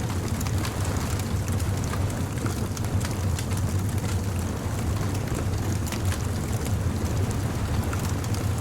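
Bonfire crackling with many small, irregular pops, over a steady low rumble of surf.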